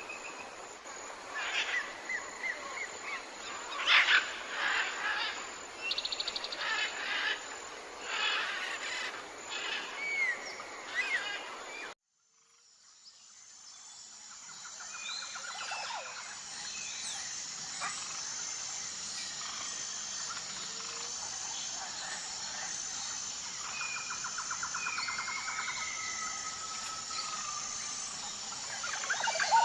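Wild birds chirping, whistling and trilling outdoors. About twelve seconds in the sound cuts out, then fades back in on a different stretch of birdsong over a steady high-pitched pulsing hiss.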